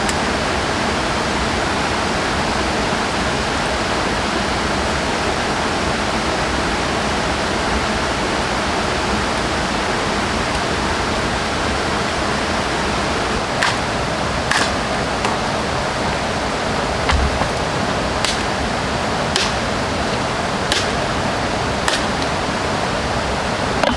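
Heavy rain falling steadily, a dense even hiss. From about halfway there are about seven short, sharp cracks or knocks, roughly one a second.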